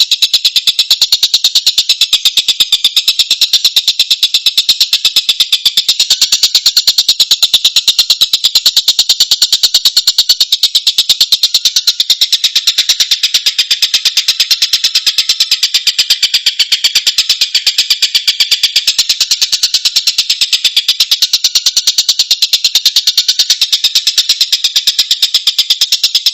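Collared kingfisher (tengkek buto) calling in a fast, unbroken series of harsh, high repeated notes, many per second. It is a bird-song master recording for training cage birds.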